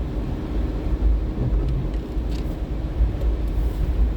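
Inside a moving car's cabin: a steady low road-and-engine rumble with a faint drone, as the car drives along.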